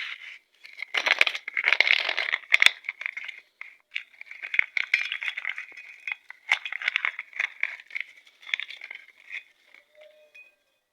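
Small metal parts and hand tools clinking and rattling, with plastic sheet crinkling, in irregular bursts as valve spring locks are worked onto a motorcycle cylinder head; the handling dies away near the end.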